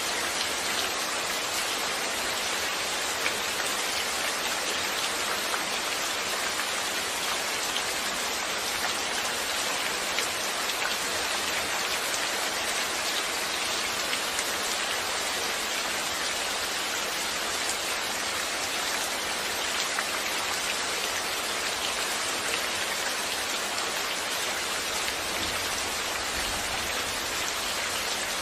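Steady rainfall, an even hiss of many drops falling on a surface, with no change in strength.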